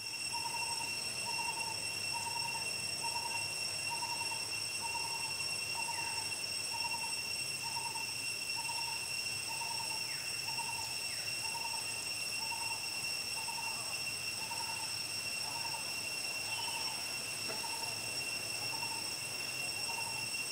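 A bird calling a single hooting note over and over, evenly about once a second, over a steady high-pitched whine.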